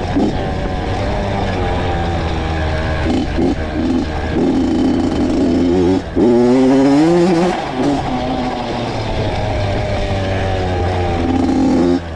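Honda CR two-stroke dirt bike engine running while ridden. About six seconds in it revs up, its pitch climbing for a second or so before dropping back.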